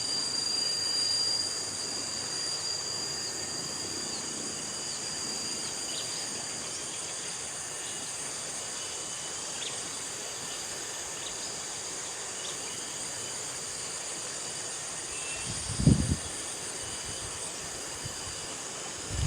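Steady, high-pitched chorus of insects, with a few faint short chirps over it and a brief low thump about sixteen seconds in.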